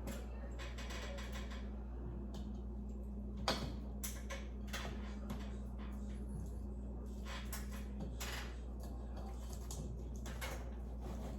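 Scattered light clicks and taps of small hardware being handled while a ceiling light fixture is taken apart, the sharpest about three and a half seconds in, over a steady low hum.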